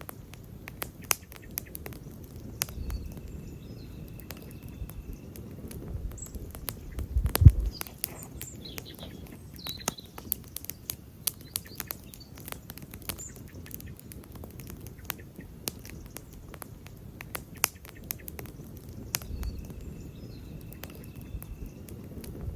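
Wood campfire crackling, with frequent sharp snaps at irregular intervals over the low rumble of the flames, and one much louder pop about seven seconds in.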